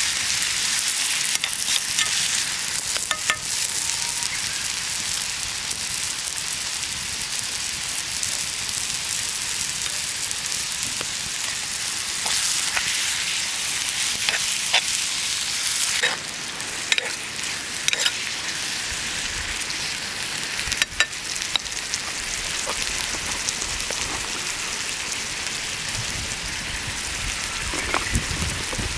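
Food frying and sizzling in a pan, with scattered clicks and taps; the sizzle eases a little about halfway through.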